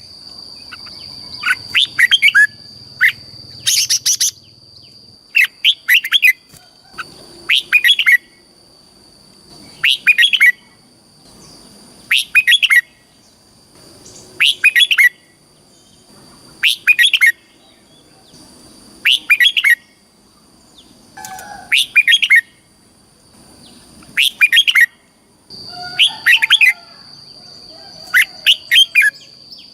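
Red-whiskered bulbul singing short, loud, warbling phrases, one about every two seconds, over a steady high-pitched tone.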